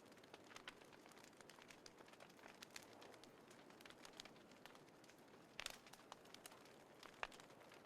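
Small wood fire crackling softly, with scattered pops over a faint steady hiss and a few sharper snaps past the middle and near the end.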